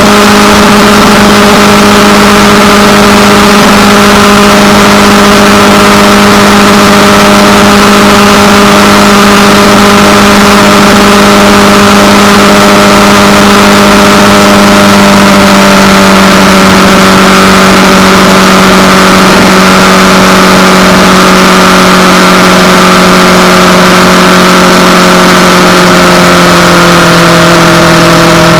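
Motorcycle engine running at a steady cruise with an even rush of road and wind noise. The engine note sinks slightly about halfway through and again near the end as the bike eases off.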